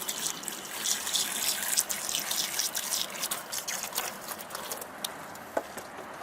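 Garden hose on a low setting spraying water onto a window air conditioner's metal fins and insides: a steady splashing hiss with crackly spatters, easing off somewhat near the end.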